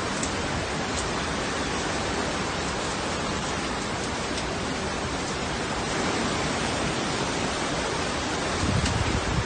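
Steady hiss of heavy hurricane rain and wind. Near the end, low gusts of wind start buffeting the microphone.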